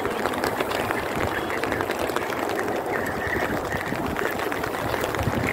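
Heavy rain falling steadily, a dense patter of many sharp drop taps.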